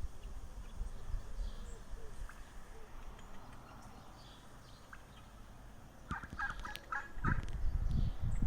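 Gulls calling. A quick run of about six short calls comes about six seconds in, followed by a low rumbling noise that grows loud near the end.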